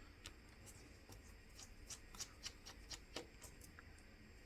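Faint, scattered light clicks and ticks of small repair tools handling a smartphone's opened internals, about a dozen spread through the middle.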